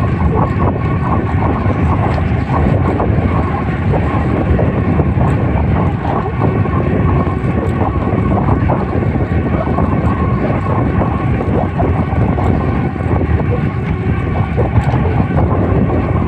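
Knobby mountain-bike tyres humming steadily as they roll at speed, mixed with wind on the microphone.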